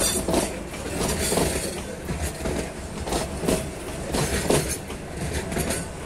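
Freight train wagons rolling past with a steady low rumble, their wheels clacking over the rail joints about twice a second.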